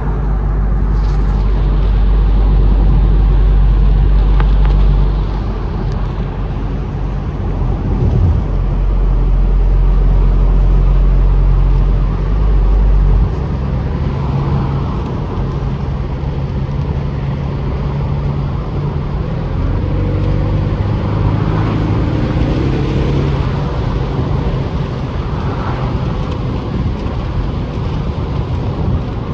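A 2025 Ford Mustang EcoBoost's turbocharged 2.3-litre four-cylinder engine running while the car is driven, mixed with road noise. A heavy low drone dominates the first part and drops away about halfway through, after which the engine note keeps shifting in pitch.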